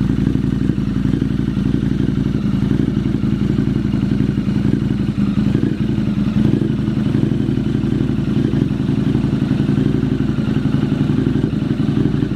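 Harley-Davidson V-twin motorcycle engine running at a steady speed. It gives a rapid, even pulsing exhaust note that holds level throughout, without revving up or down.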